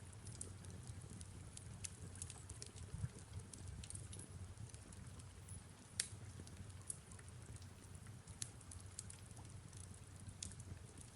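Fireplace crackling with irregular sharp pops, one louder about six seconds in, over a low steady rumble and soft rain.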